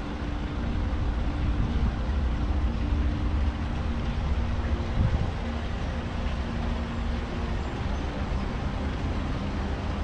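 Dutch barge's inboard engine running steadily under way, a continuous low hum.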